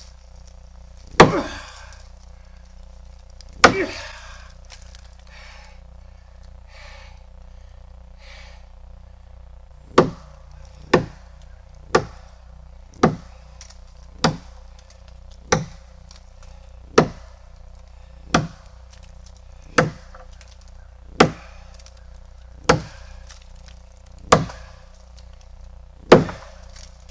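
Axe chopping into a tree branch: two strikes, a pause of several seconds, then a steady run of about a dozen strikes, one every second or so.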